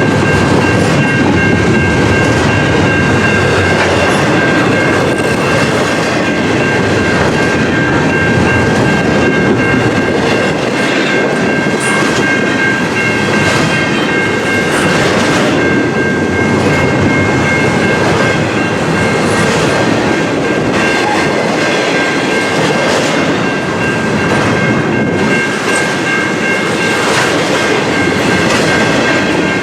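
Freight train cars rolling past at close range, wheels clacking over the rail joints, with a steady high-pitched whine held above the rumble.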